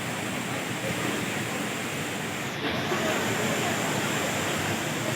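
Steady rush of falling water from a large waterfall, the Rain Vortex at Singapore's Changi Airport, which is fed with collected rainwater.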